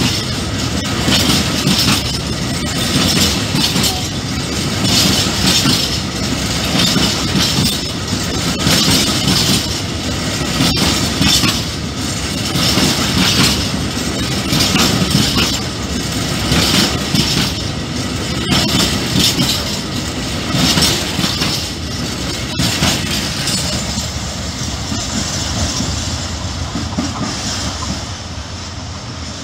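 Freight train of hopper wagons rolling past at speed: a steady rumble of wheels on rail with rhythmic clickety-clack over the rail joints and a few sharp clicks. It grows a little quieter near the end.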